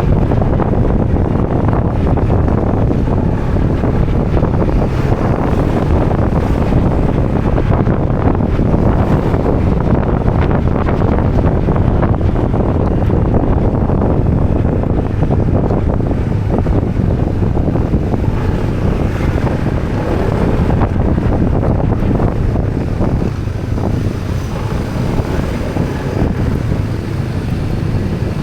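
Wind buffeting the microphone on a moving motorbike: a steady low rumble with the bike's engine running under it, easing slightly near the end.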